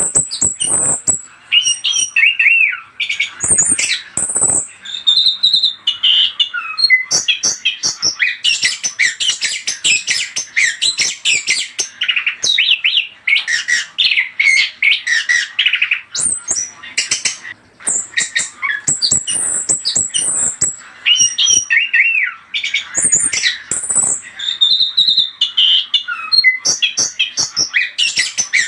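Chestnut-capped thrush (anis kembang) singing a rapid, varied song of chirps, squawky notes and whistled phrases, almost without pause; the kind of lively song played as a lure to make other anis kembang answer.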